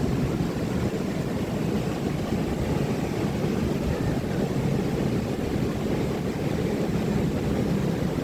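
Ocean waves washing onto the shore: a steady, dense low wash of noise with no breaks.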